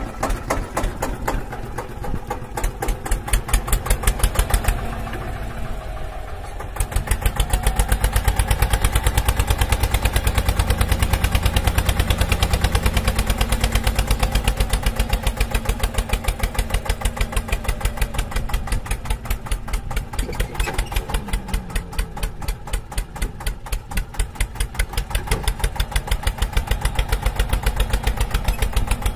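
Engine chugging steadily with a rapid, even beat, like a tractor engine idling; it dips briefly and comes back louder and heavier from about seven seconds in.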